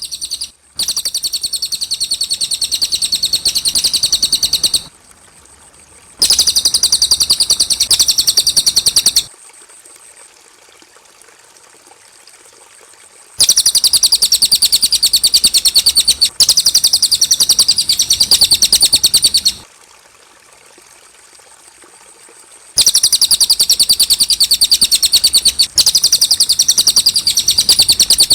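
Cililin bird singing in bursts of very rapid, high-pitched chattering trills, each run lasting a few seconds with short pauses between, four runs in all. A faint steady high hiss or tone sits underneath in the pauses.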